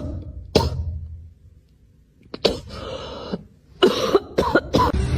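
Short coughing sounds in separate bursts: two near the start, a pause, two more about two and a half seconds in, and a quick run of them near the end.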